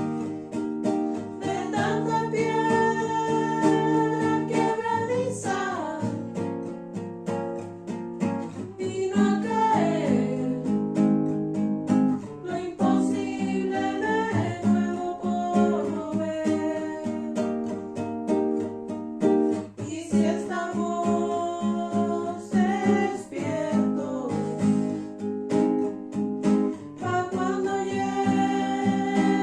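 Strummed guitar in a steady rhythm, with a voice singing long held notes over it.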